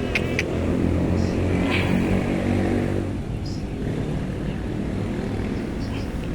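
Steady low drone of an engine running, strongest over the first three seconds and then easing off a little.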